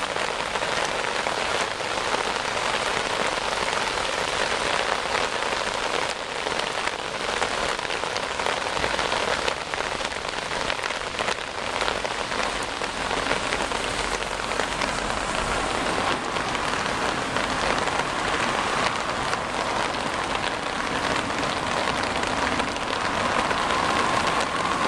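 Heavy rain falling steadily, a dense even hiss made of countless fine drop ticks.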